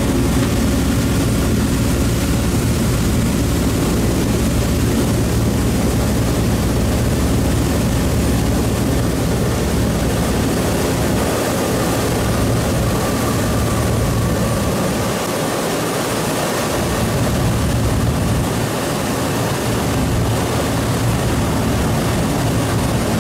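Boat engine running steadily with the boat under way, a low, even drone.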